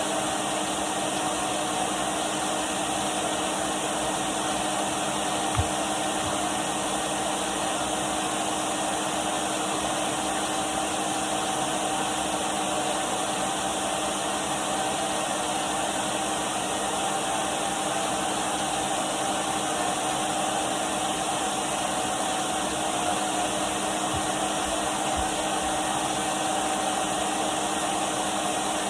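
Henry canister vacuum cleaner running steadily, a constant whooshing hiss of air with a steady motor hum. One brief knock about six seconds in.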